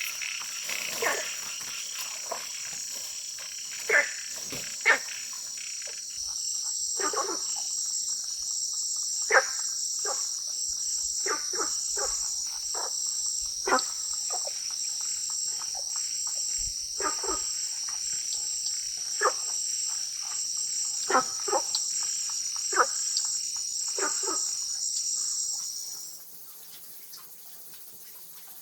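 Steady high-pitched insect chorus of crickets with short frog calls at irregular intervals, about one or two a second. The insect chorus stops near the end, leaving the frog calls fainter.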